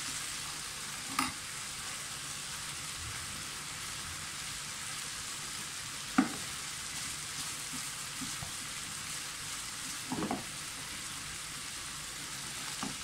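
Skewered chicken tikka pieces sizzling in oil in a frying pan with a steady hiss, as the water the chicken released cooks off. A few short knocks break in, the loudest about six seconds in.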